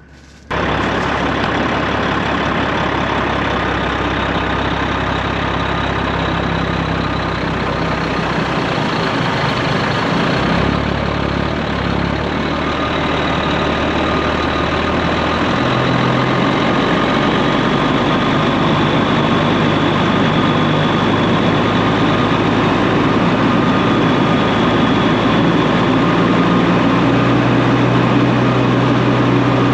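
Straight-piped Peterbilt 389 semi truck's diesel engine running loud and steady with a load of soybeans on, its low note changing in steps a few times.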